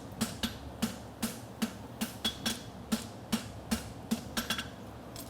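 Farrier's hammer striking a steel bar shoe on an anvil in a steady rhythm, about two and a half ringing blows a second, quickening into lighter taps before stopping near the end. A steady buzz from a cooling fan runs underneath.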